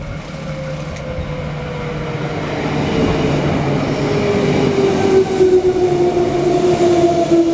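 Electric commuter train running, with a rumble and a whine from its motors that falls slowly in pitch, typical of the train braking. It grows gradually louder.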